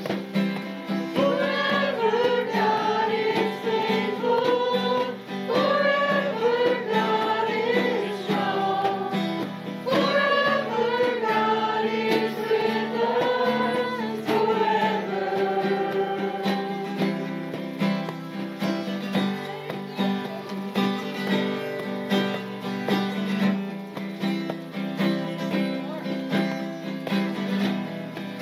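Worship song sung by a group of voices over strummed acoustic guitar. The singing stops about halfway through, and the guitar goes on strumming steadily on its own.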